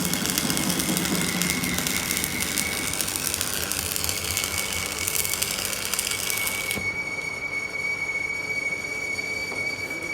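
Workshop machine running with a steady high-pitched squeal. A hiss over it stops suddenly about two-thirds of the way through, and the squeal carries on.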